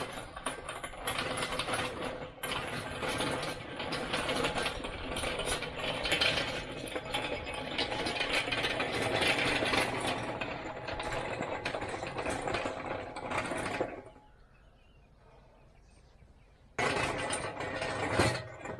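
A rough, rattling mechanical noise, running for about fourteen seconds, stopping, then starting up again briefly near the end.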